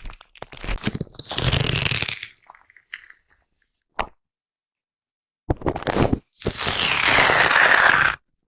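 A foam brush rubbed and brushed directly against a microphone, in two long strokes whose hiss slides down in pitch. The strokes are separated by a gap of silence with a single short tap about four seconds in.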